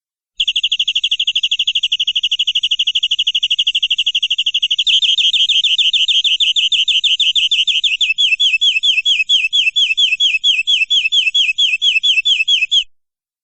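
Domestic canary singing one long unbroken trill of rapid repeated high notes. About five seconds in, the notes turn louder and slightly slower. From about eight seconds they become distinct falling sweeps, roughly five a second, until the song stops abruptly near the end.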